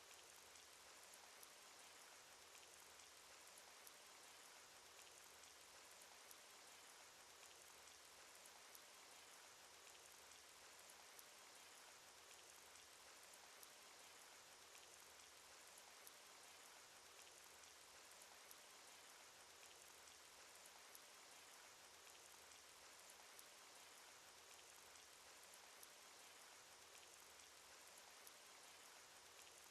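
Faint, steady cartoon rain sound effect: an even hiss of rainfall dotted with many small drop ticks.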